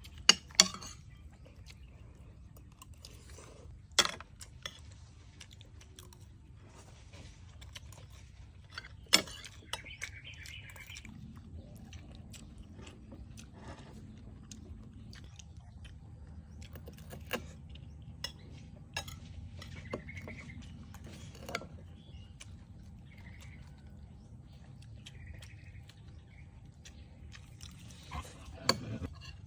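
Dishes and cooking utensils clinking and knocking now and then, over a steady low hum. The sharpest knocks come near the start, at about four and nine seconds in, and again near the end.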